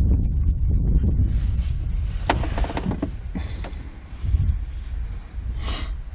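Low wind rumble on the microphone with an insect's steady high-pitched trill, and a few short knocks about two seconds in.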